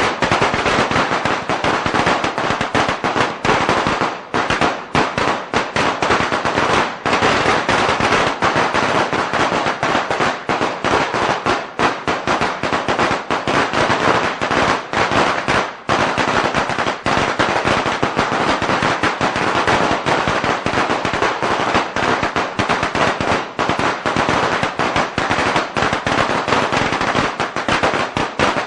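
A string of firecrackers going off in a long, rapid, continuous crackle of sharp bangs with barely any gaps.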